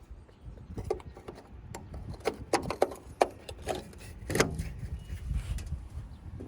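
A string of irregular knocks and clatters, thickest in the middle, over a low rumble.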